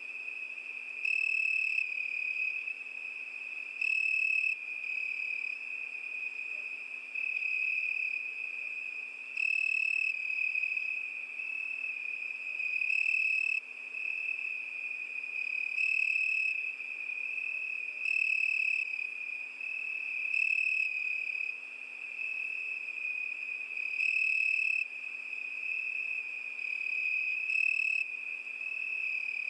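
Crickets singing: a continuous high trill, with louder chirps swelling up every few seconds.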